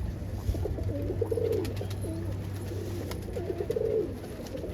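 Domestic pigeons cooing in a loft, several low warbling coos one after another over a steady low hum.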